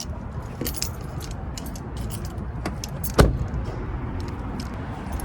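Small objects clicking and rattling as they are handled, with one heavier thump about three seconds in, over a steady low rumble.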